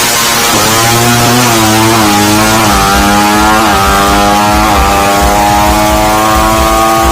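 Suzuki Satria FU 155cc single-cylinder four-stroke engine through a racing exhaust, accelerating hard: the pitch climbs, dips at gear changes about every second in the middle, then holds steady at high revs.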